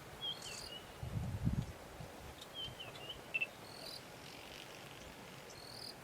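Birds calling in the bush: short whistled chirps and a repeated high call, several times over, with a brief low rumble about a second in.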